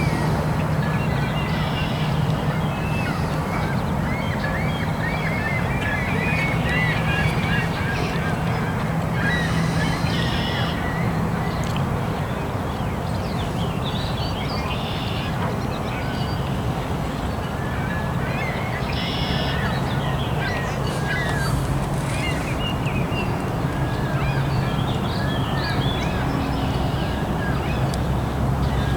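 Geese honking over a steady low hum and constant outdoor background noise.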